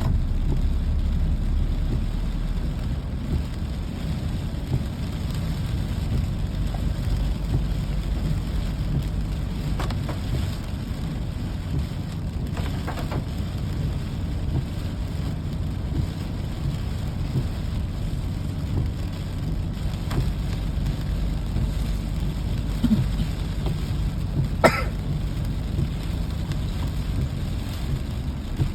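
Steady rainy-day ambience: rain with a constant low rumble underneath, and a few faint sharp clicks, the clearest about 25 seconds in.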